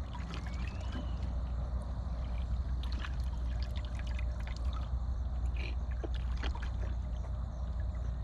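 Small splashes and trickles of water in an automatic horse waterer, over a steady low rumble of wind on the microphone.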